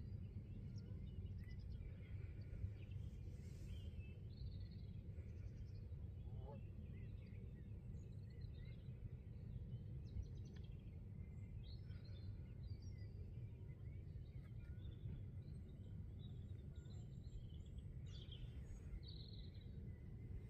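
Faint, scattered bird chirps over a low, steady rumble of background noise.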